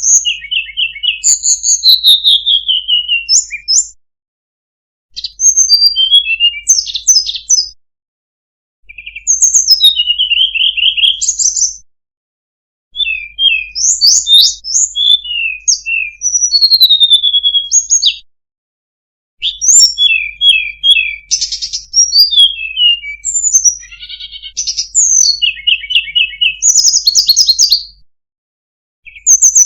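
Tledekan gunung songbird singing: bouts of rapid, varied high whistles, trills and slurred notes, each a few seconds long, broken by short silent pauses.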